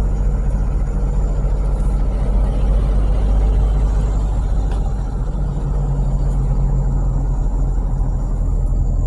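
Car driving, a steady low engine drone and road rumble as heard from inside the cabin, the engine note shifting slightly about halfway through.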